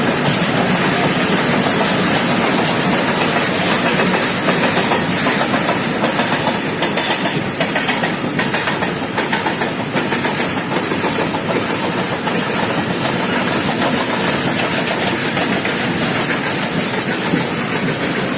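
Pune–Bhubaneswar superfast express train running at speed: a steady loud rush of wheels on rails, with a few sharper clacks about seven to ten seconds in.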